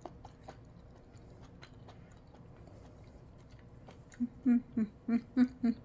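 Soft mouth clicks of someone chewing avocado. About four seconds in, a quick run of about seven short, loud 'mm' hums of enjoyment follows.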